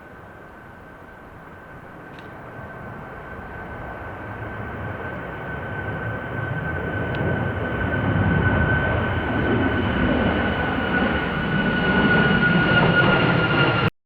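Jet airliner's engines drawing closer, a rising rumble with a steady high whine that grows louder over about nine seconds and cuts off suddenly near the end.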